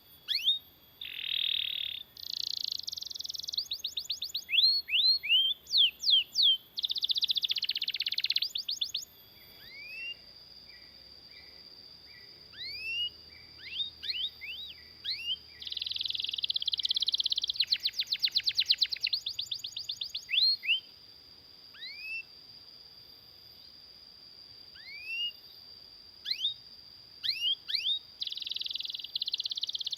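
Domestic canary singing a long rolling song: fast trills and rolls alternate with single rising chirp notes, with a steady high tone running under much of it.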